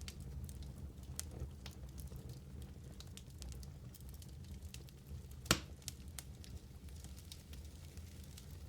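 Wood fire burning in a fireplace, a low steady rumble under scattered small crackles, with one sharp louder pop about five and a half seconds in.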